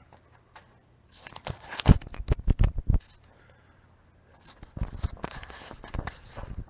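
Hand work on a Tahoe's front four-wheel-drive actuator as it is worked loose and pulled out. First comes a quick run of irregular metal and plastic knocks and clicks, then, a couple of seconds later, a longer stretch of scraping and rattling.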